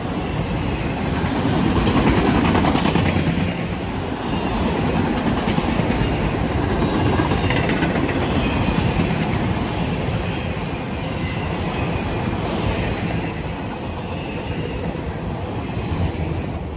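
Autorack freight cars of a CSX freight train rolling past at close range: a steady, loud rumble and clatter of steel wheels on the rails.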